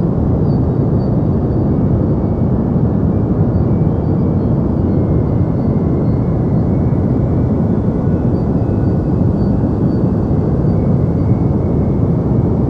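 Steady deep white noise: an even, continuous hiss weighted toward low pitches, with little treble.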